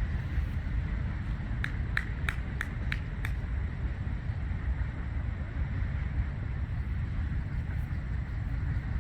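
Steady low rumble of wind buffeting the microphone, with a quick run of six short, sharp ticks about two seconds in.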